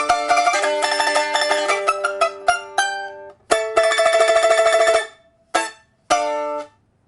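Rosewood liuqin, a small Chinese plucked lute, played with a plectrum. Fast plucked notes slow to a stop. Then come a tremolo chord, one short stroke and a final tremolo chord that cuts off to end the piece.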